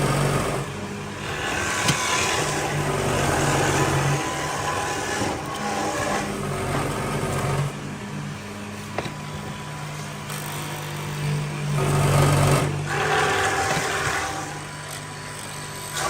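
A power tool's motor running steadily, with a gritty cutting noise that rises and falls in stretches as it works the wood.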